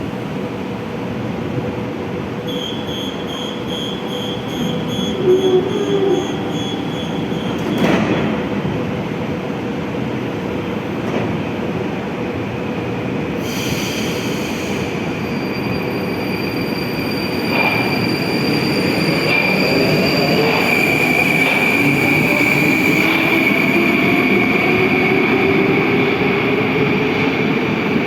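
Moscow metro train: a rapid pulsing electronic beep for several seconds, a sharp clunk, a short burst of hiss, then the electric traction motors whining and rising in pitch as the train pulls away and accelerates, with a high squeal from the wheels.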